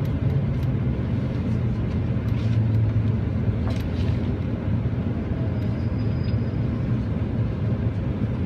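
Train running, a steady low rumble with a few faint clicks and rattles.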